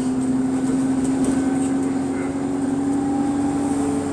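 Bus engine and exhaust under way with an exhaust leak: a steady loud drone that rises slowly in pitch and falls back near the end.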